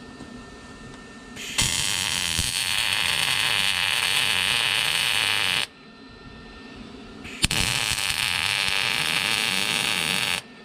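Electric arc welding: two bursts of steady, hissing arc noise, about four and three seconds long, each starting and stopping abruptly as a bracket is tack-welded in place. The second burst opens with a sharp crack.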